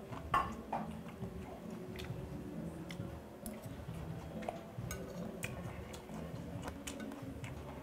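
A person chewing a mouthful of raw tuna sashimi, with scattered light clicks of metal chopsticks against the plate.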